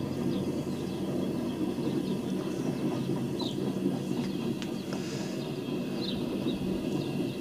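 Empty coal hopper cars rolling past on the rails: a steady low rumble, with faint short high chirps now and then.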